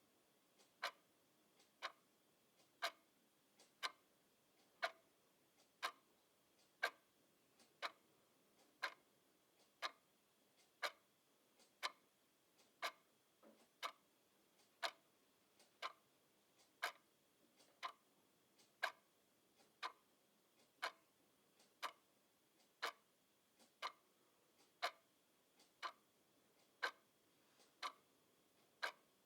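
Mechanical clock ticking at an even pace: a sharp tick about once a second, with a much fainter tock roughly halfway between.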